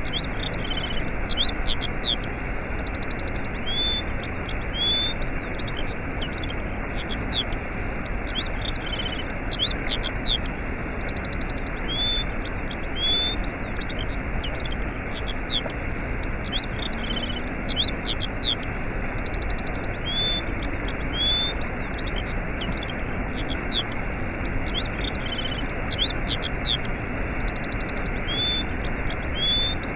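Small birds chirping and whistling over the steady rush of a waterfall. The same set of calls comes round again about every four seconds.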